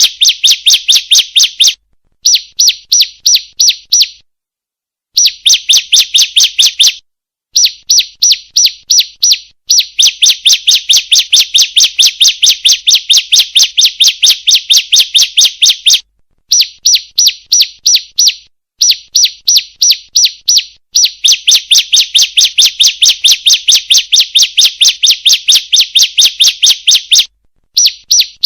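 Female bar-winged prinia (ciblek) calling: runs of rapid, evenly spaced high chirps, about five a second, each run lasting a few seconds and broken by short pauses.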